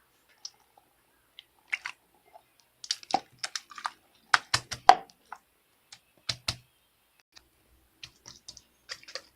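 Slime being squeezed and pressed by hand, giving off irregular wet clicks and crackling pops in short clusters, busiest in the middle.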